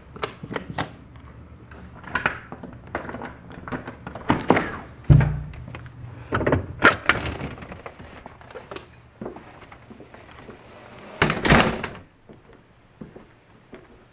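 Front door being unlocked and opened: a series of latch and handling clicks and knocks, a heavy thump about five seconds in, and a louder, longer noisy clatter about eleven seconds in.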